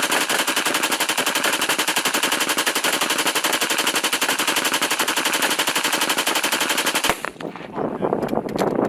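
Belt-fed machine gun firing one long sustained burst of rapid, evenly spaced shots, cutting off about seven seconds in. Scattered single cracks follow.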